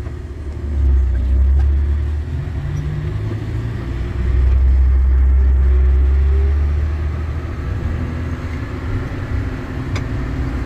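A road vehicle driving: a low engine and road rumble that swells and eases a couple of times.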